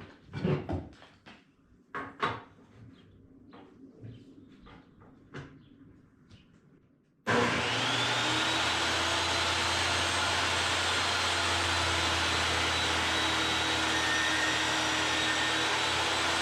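Knocks and clicks of wood and tool parts being handled. About seven seconds in, a workshop power tool's electric motor switches on, spins up and runs steadily.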